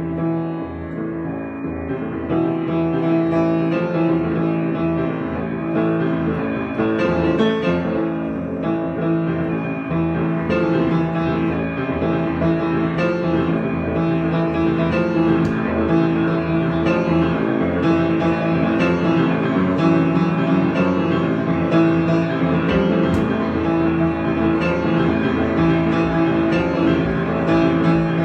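Improvised piano music, played continuously over steady held low notes.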